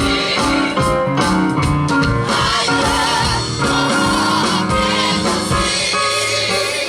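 Live gospel song: voices singing held, wavering notes over a band with bass and a steady drum beat.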